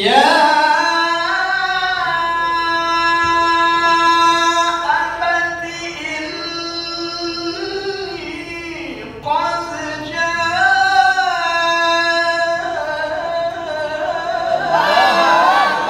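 A male qari reciting the Quran in the ornate tilawah style, a single high voice holding long melismatic notes in two phrases with a breath about nine seconds in. Near the end other voices rise from the listeners.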